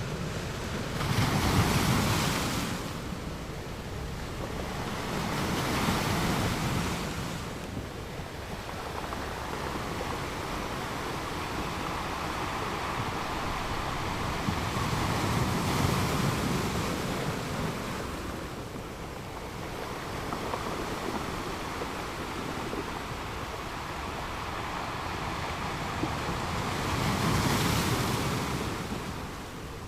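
Rushing water: a continuous noise that swells and eases, with four broad surges.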